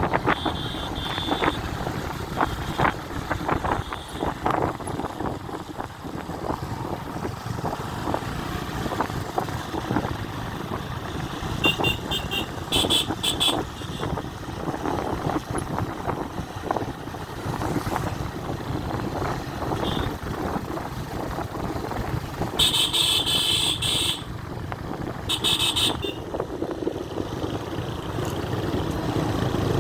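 Motorcycle on the move, with steady road and wind noise. A vehicle horn beeps several times in quick succession about twelve seconds in, then sounds twice more, longer, near the end.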